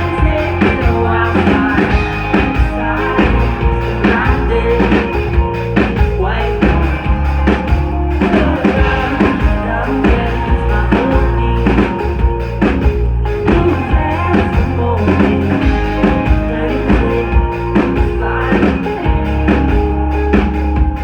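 Live indie rock band playing an instrumental passage: electric guitars, bass and drum kit at full volume, with a steady beat.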